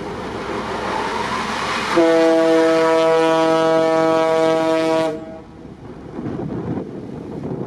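A ship's horn sounds one long, steady blast of about three seconds, starting about two seconds in, over rushing wind and sea noise.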